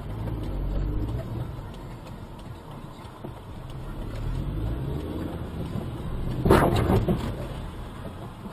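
Car engine and road rumble heard from inside a vehicle, the engine note rising twice, with a short cluster of sharp knocks about six and a half seconds in.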